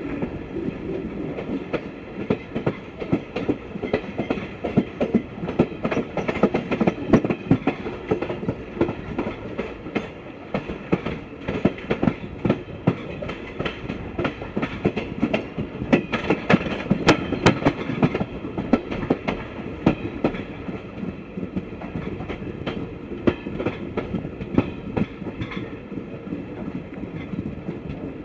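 Broad-gauge express train running along the track, its wheels clicking and clattering over rail joints above a steady rumble of the coaches.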